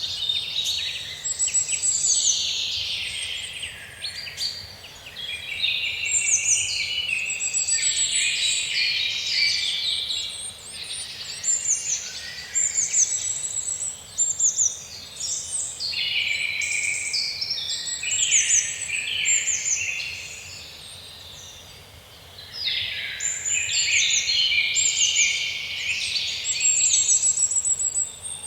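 Several songbirds singing at once: a dense, overlapping chorus of high chirps and trills, thinning out for a couple of seconds about two-thirds of the way through before picking up again.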